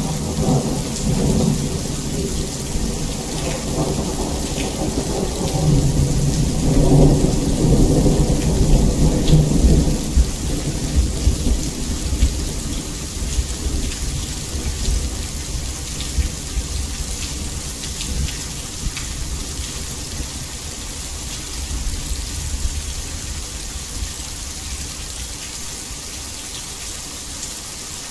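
Heavy rain falling in a steady hiss, with a roll of thunder rumbling through the first ten seconds. The thunder swells at about seven to ten seconds, then dies away, leaving the rain alone.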